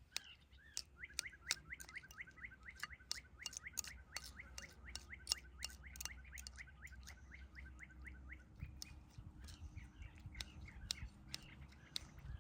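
A bird calling a fast series of short chirps, about five a second, that runs for several seconds and stops about seven seconds in. Sharp clicks and ticks are scattered throughout.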